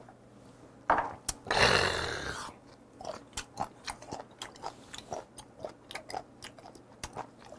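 A loud breathy exhale just after a shot of soju is swallowed, then close-up chewing of raw sea cucumber: a steady run of short wet crunching clicks, about three a second.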